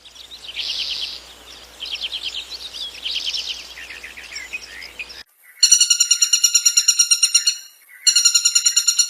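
High-pitched animal calls. Quick chirping trills come in bursts over the first five seconds. After a short break, a shrill, rapidly pulsing call comes in two bouts of about two seconds each.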